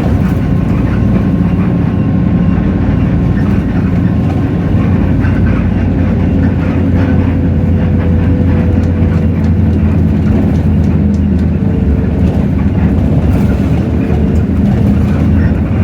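Hino J08E-VN straight-six diesel engine of a city bus running under way, heard from inside the cabin as a steady low drone.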